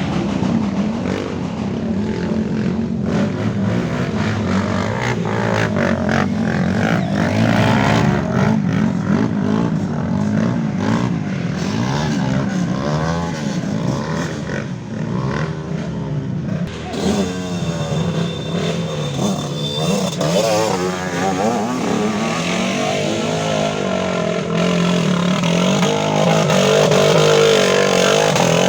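Off-road trail motorcycles revving hard, engine pitch rising and falling over and over as the throttle is worked. The engines get somewhat louder near the end.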